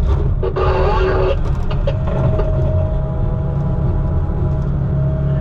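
A heavy vehicle's engine running with a steady low rumble. There is a short burst of noise about half a second in, and a steady tone comes in about two seconds in and holds.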